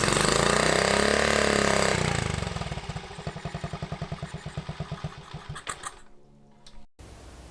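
An engine revving up and back down, then running with a pulsing beat that slows and fades out as it winds down to a stop.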